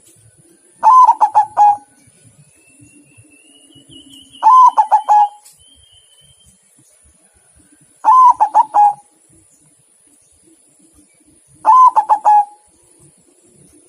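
Zebra dove (perkutut) cooing: four phrases of quick rolling notes, each under a second long, repeated about every three and a half seconds.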